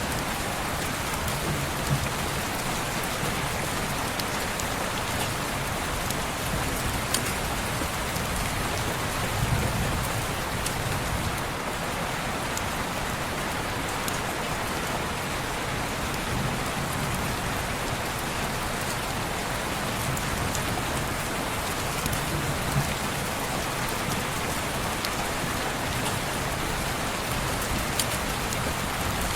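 Steady heavy rain falling on a window, a dense even hiss with scattered sharp ticks of drops and a few soft low rumbles.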